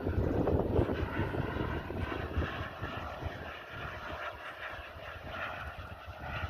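Small propeller aircraft's engine running in flight, a droning whine that fades in the middle and grows louder again near the end, over rumbling wind noise on the microphone.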